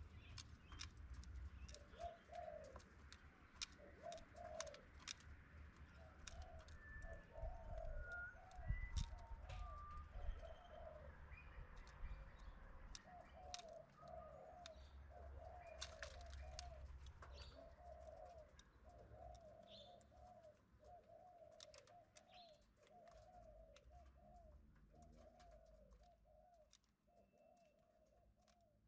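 A pigeon or dove cooing over and over, a long run of soft low coos in quick groups, with a few faint higher chirps and whistles from other birds and scattered faint clicks.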